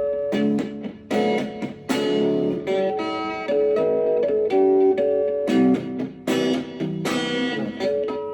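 Guitar music: plucked notes and strummed chords ringing out one after another.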